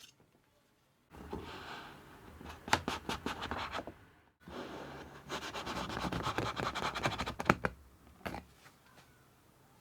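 Scratching and scraping on wood in two stretches of a few seconds each, dotted with sharp ticks and broken by a brief silence about four seconds in.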